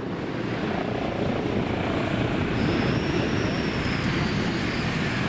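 Steady engine drone, growing slightly louder, with a faint high whine about halfway through.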